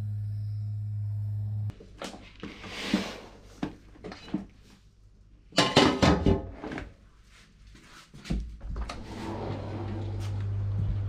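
A steady low hum cuts off, then comes a stretch of knocks and clatter with a loud rustling burst in the middle, and the hum starts up again near the end.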